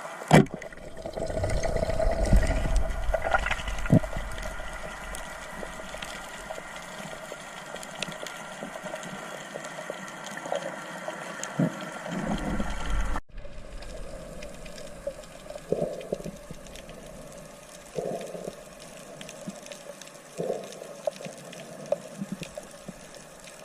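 Underwater ambience picked up by a camera in the sea: a steady wash of water noise with scattered clicks and knocks. The sound drops out for an instant about 13 seconds in and resumes.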